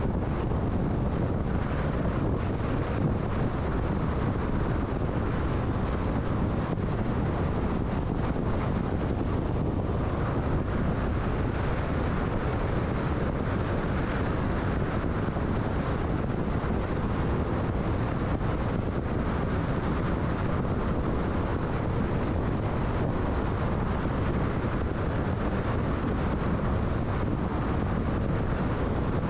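Car driving at freeway speed: a steady, unchanging rumble of tyre and wind noise.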